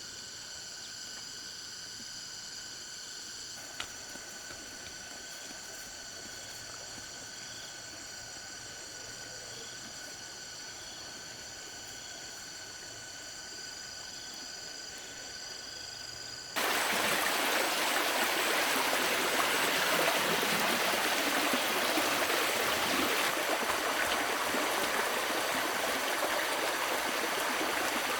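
Insects chirping with steady high thin tones. About sixteen seconds in, a loud rush of running water starts abruptly and goes on.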